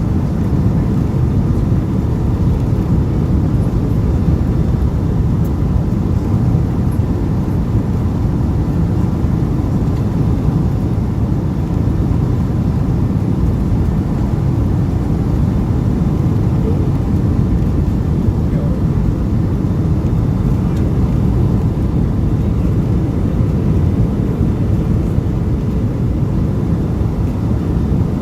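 Steady low rumble inside a Boeing 757 airliner's cabin: engine and airflow noise as the jet comes in to land.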